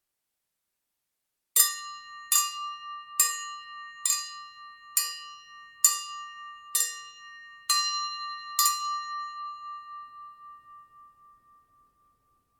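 A ringing metal object struck nine times, a little under a second apart. Each hit leaves several steady bell-like tones sounding, and the ring fades out over a few seconds after the last strike.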